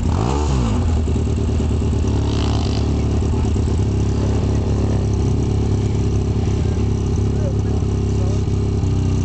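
Classic sidecar scrambles motorcycle engine running, blipped once right at the start so its pitch rises and falls, then idling steadily.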